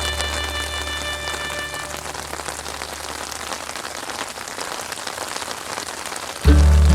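Steady rain sound, with the held chord of the background music dying away over the first couple of seconds and the music starting again loudly, with a strong bass, just before the end.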